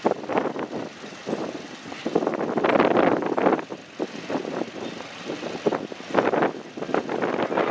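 A train moving along the track, with irregular knocks and surges of rumbling noise.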